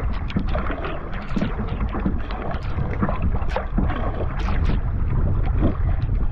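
Wind buffeting the microphone in a loud low rumble, with water splashing and slapping irregularly against a canoe as it is paddled across a choppy lake.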